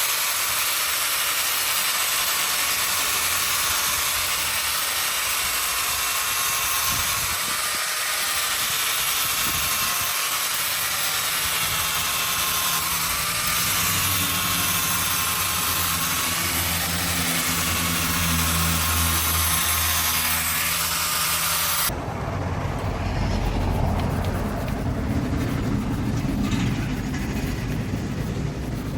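A power tool running steadily with a wavering whine. About 22 seconds in the sound changes abruptly to a lower, rougher machine noise.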